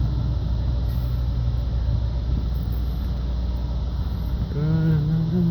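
Steady low rumble of vehicle engines running, as at a truck stop. About four and a half seconds in, a person makes a short hum that rises and falls in pitch.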